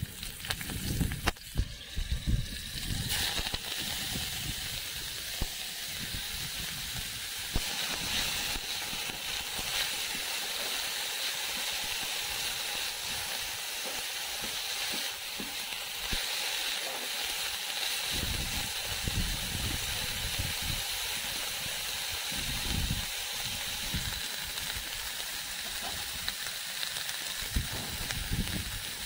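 Chopped green amaranth leaves frying in hot oil in a metal wok: a steady sizzle that gets louder about three seconds in. There are a few sharp knocks in the first seconds.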